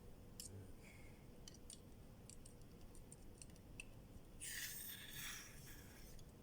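Faint clicks and knocks of camping gear being handled, with a short rustling noise in two quick parts about four and a half seconds in.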